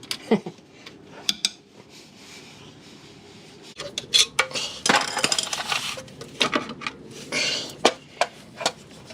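Metal tools and engine parts clinking and scraping: a few separate clinks, then a busy run of clatter and scrapes from about four seconds in, as a connecting-rod bearing cap is worked off under the engine to inspect the bearing.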